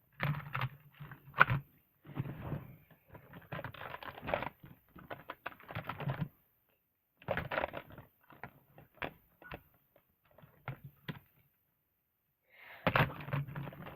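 Irregular plastic clicks and rattles of a toy truck being handled and its moving parts worked, stopping briefly twice.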